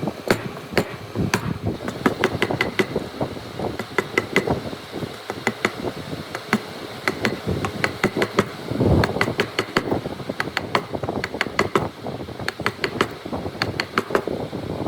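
Hand tools working wood for a hand-cut dovetail joint: many quick, irregular taps and knocks, like a chisel being struck and worked into the joint. There is a louder, rougher scrape about nine seconds in.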